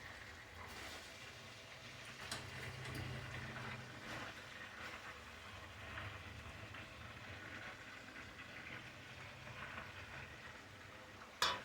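Chicken pieces frying faintly in hot oil in a pot as they brown, a soft steady sizzle with scattered small crackles. A sharp click sounds near the end.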